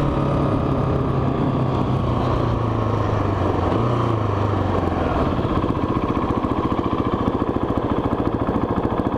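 Motorcycle engine slowing down, its pitch falling over the first five seconds, then settling into a pulsing idle.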